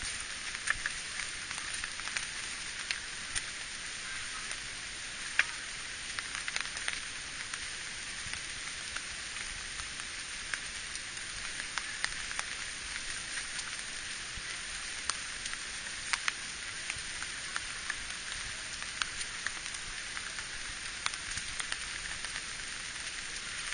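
Steady rain falling, a continuous hiss with frequent sharp ticks of single drops landing close by.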